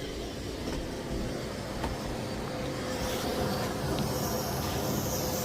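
Miele Blizzard CX1 bagless cylinder vacuum cleaner running steadily, a constant motor hum under a rush of air, with a couple of light ticks about two and four seconds in.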